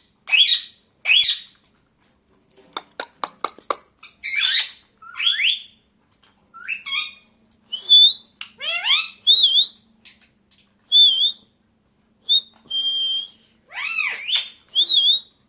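Pet parakeet calling: a run of short harsh screeches, then a quick burst of clicks about three seconds in. In the second half come high whistled notes and calls that slide up and down in pitch.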